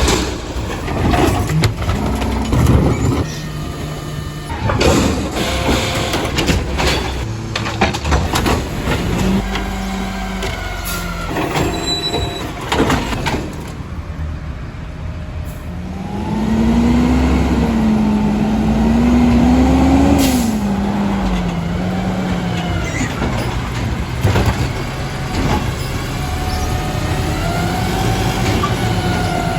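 Garbage truck at work: its diesel engine runs under hissing air brakes and repeated knocks and bangs. A strong wavering tone rises and falls for several seconds near the middle.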